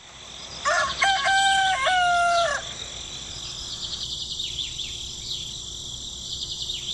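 A rooster crowing once, a long stepped call of about two seconds. Quieter small-bird chirps follow over a steady high-pitched background.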